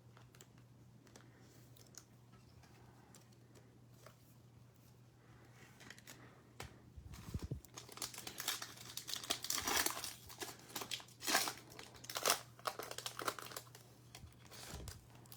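Trading-card pack wrapper being torn open and crinkled: a run of irregular crackles and rips that starts about six seconds in, after a near-quiet stretch.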